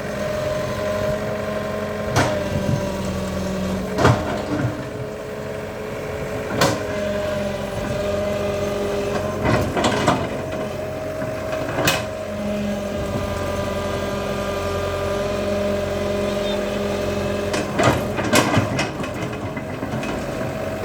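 Excavator's diesel engine running steadily at a constant pitch, with a sharp knock every few seconds, about seven in all.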